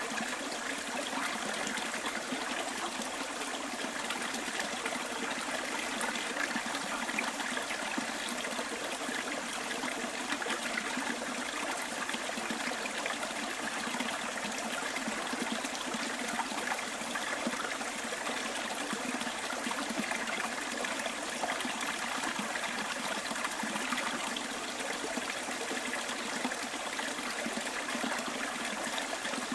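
Stream water trickling and running steadily, an even rush of water.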